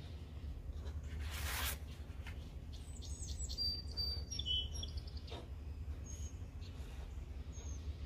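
Small birds chirping in the background: short, high chirps between about three and five seconds in and once more near the end, over a steady low hum. A brief scratchy hiss comes about a second and a half in.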